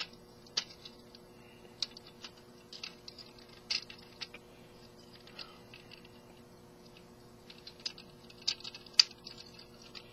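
Irregular small clicks and taps of hard plastic action-figure parts being handled and moved during a transformation, with one sharper click about nine seconds in.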